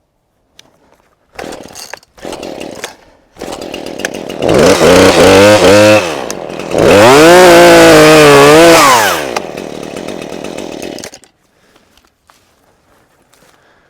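Chainsaw running: quieter at first, then revved hard twice with its pitch rising and falling, then back to a lower run before it shuts off about eleven seconds in.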